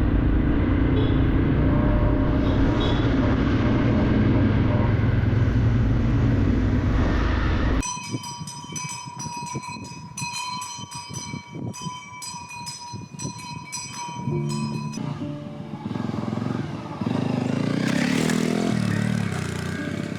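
A motorcycle engine running under way, a loud steady drone for about eight seconds, then a sudden cut. The rest is quieter music: steady high tones at first, then changing pitched notes from about fifteen seconds in.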